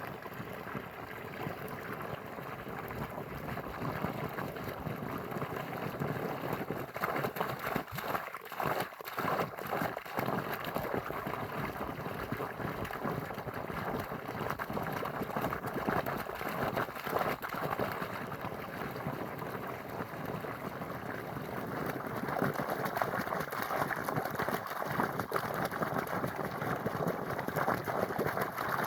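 Flowing water, a continuous rushing sound.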